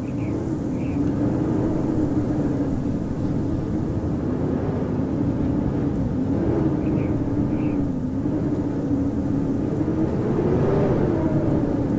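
Howling blizzard wind: a steady rushing gale with a moaning pitch that wavers up and down.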